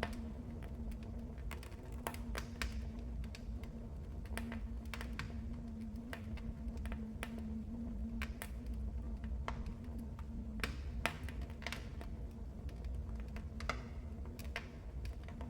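Wood fire crackling, with irregular sharp pops and snaps over a steady low rumble and hum.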